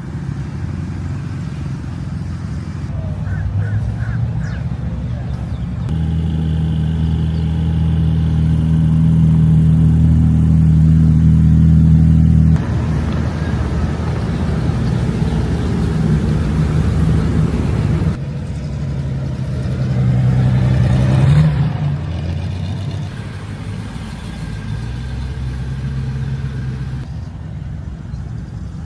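Classic car engines running at low speed as cars move past one after another, a deep, steady engine note that swells and fades. The loudest one cuts off abruptly about midway, and another swells and dies away later.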